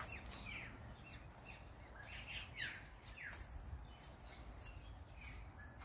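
Birds chirping faintly: short, quick notes that slide downward in pitch, several in a cluster about two to three seconds in.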